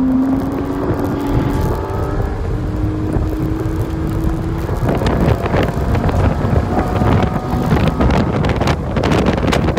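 The Porsche 981 Cayman S's 3.4-litre flat-six engine under load, heard from inside the cabin, its steady note rising slowly in pitch through a fast corner. About halfway through, a louder, rougher rush of engine, tyre and wind noise with many sharp crackles takes over as the car speeds up.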